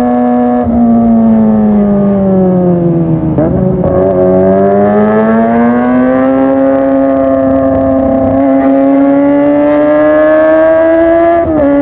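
Kawasaki ZX-25R's 250 cc inline-four with an SC Project aftermarket exhaust, running high-pitched under way. The note sinks for the first few seconds and breaks briefly about three and a half seconds in. It then climbs slowly and steadily, and dips sharply for a moment near the end.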